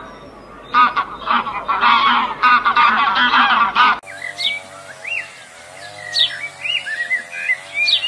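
Domestic geese honking loudly and repeatedly for about four seconds. The sound then cuts abruptly to a few short, sweeping bird chirps over a steady wavering tone.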